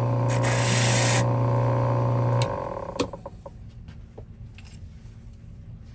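A steady machine hum with a brief burst of hiss about half a second in; the hum stops suddenly about two and a half seconds in, followed by a single sharp click and then a few faint clicks.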